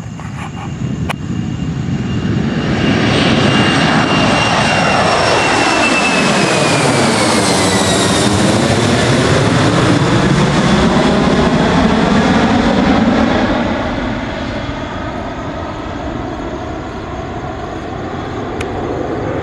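Boeing 767 twin-engine jet departing under takeoff thrust and passing by. The engine noise builds over a few seconds, a high fan whine falls in pitch as it goes past, and after about 13 seconds it eases into a lower, fading rumble.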